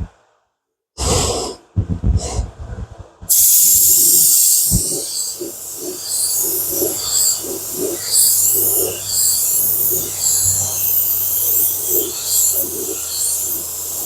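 Paint spray gun hissing steadily as a coat of blue colour is sprayed, starting about three seconds in after a few short loud bursts. A soft pulsing runs under the hiss.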